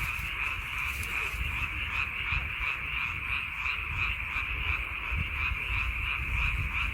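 A dense chorus of many frogs calling together, a steady massed pulsing chorus, with a low rumble underneath.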